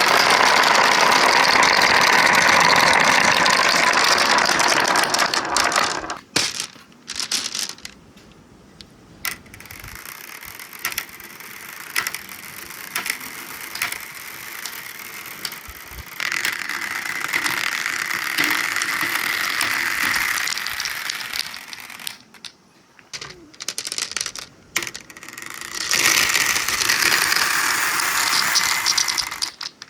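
Marbles rolling and clattering through a marble run: a dense rattle for the first several seconds, then scattered clicks with quieter gaps, and a dense rattle again near the end.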